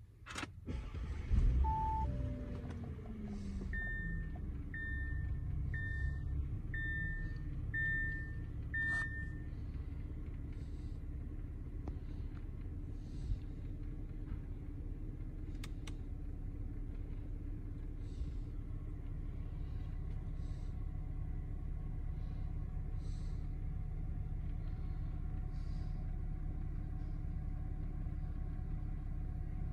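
Audi A8 L's 3.0-litre supercharged V6 starting up about a second and a half in, its revs flaring and then falling to a steady idle, heard from inside the cabin. Two short chimes come right after the start, then a warning chime repeats six times at about one a second.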